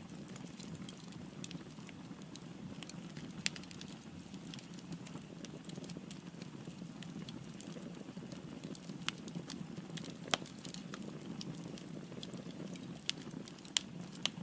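Firewood burning in a fireplace: a steady low rush of flames with irregular sharp crackles and pops, a few louder snaps about 3 seconds in, near 10 seconds and near the end.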